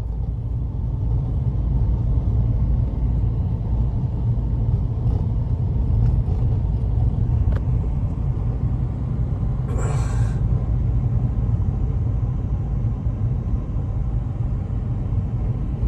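Strong blizzard wind rumbling steadily on the microphone, with a brief hiss about ten seconds in.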